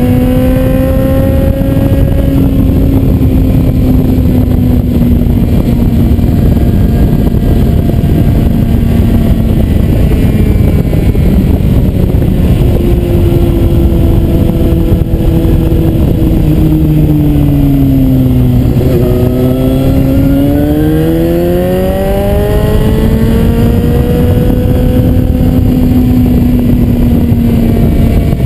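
Suzuki GSR 750's inline-four engine under way, heard from on the bike through heavy wind noise. The engine note holds steady, falls about halfway through as the bike slows, then climbs again as it accelerates.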